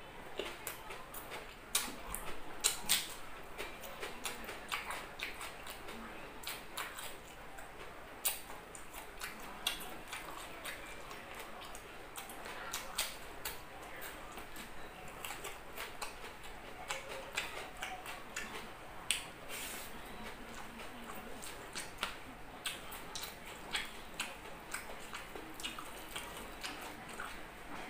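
Close-up chewing and mouth sounds of a person eating rice and grilled pork by hand, with irregular wet clicks and smacks throughout, a denser cluster about two to three seconds in.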